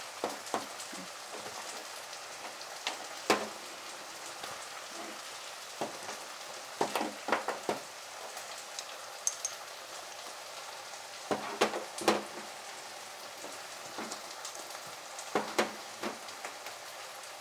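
Food sizzling steadily in a frying pan, a constant hiss, with scattered clicks and knocks of spoons and containers as seasonings are handled.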